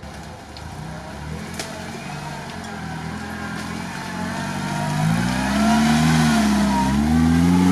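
Lada Niva's engine revving under load as it works through deep mud, the revs rising and falling and growing louder over the last few seconds.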